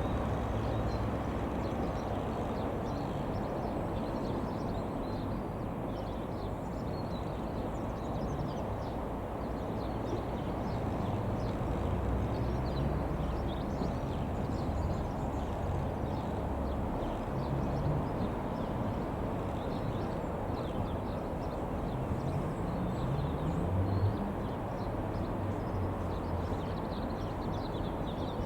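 Steady outdoor rumble of distant engine noise, with a few short rising engine tones about halfway through and again near the end.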